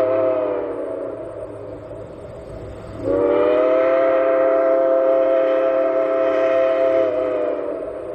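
Steam locomotive whistle sounding twice, two close tones together: a blast that fades out about a second in, then a long blast of about five seconds starting around three seconds in.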